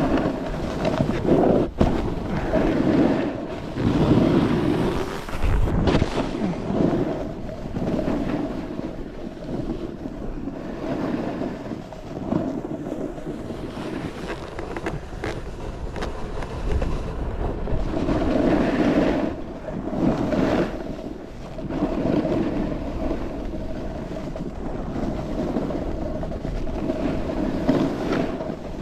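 Snowboard riding on snow: the board's edge scraping and hissing through turns, swelling and fading every couple of seconds, under wind noise on the microphone.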